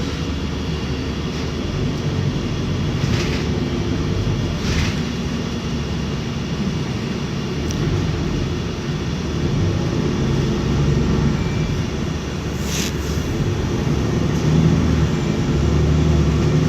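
Inside a moving city bus: steady low engine and road rumble, with a few brief hisses about three, five and thirteen seconds in.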